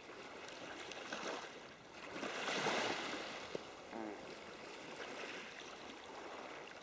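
Small waves washing in on the shore: a steady hiss of water that swells about two and a half seconds in and then eases back.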